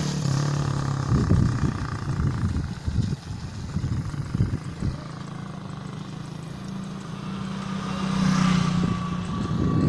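Wind buffeting and low rumble on the microphone while a mountain bike rides downhill on a trail, with a steady low engine hum near the start and again near the end.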